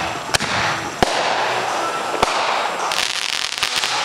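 Fireworks going off: three sharp bangs about a second apart over a continuous crackle, then a quick run of cracks near the end.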